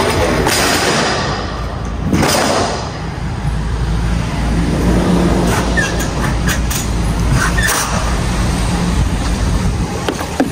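DAF XF510 truck's diesel engine running steadily, heard from the truck. Two short bursts of hissing noise come over it near the start.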